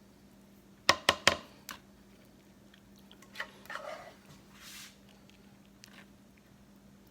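Kitchen handling sounds: three sharp knocks in quick succession, a fainter one just after, then lighter clicks and a short scrape.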